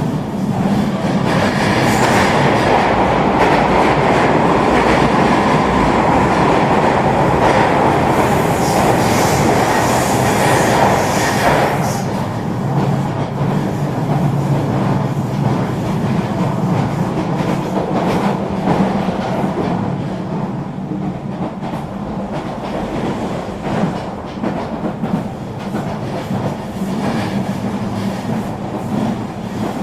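Eurobahn regional train running along the track: a steady rumble of wheels on rail with clickety-clack. A louder, hissier stretch cuts off suddenly about twelve seconds in, leaving a quieter, even rumble.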